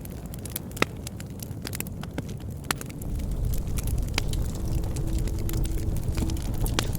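Wood fire crackling and popping, with sharp snaps scattered irregularly over a low rumble of the flames. The rumble gets louder about three seconds in.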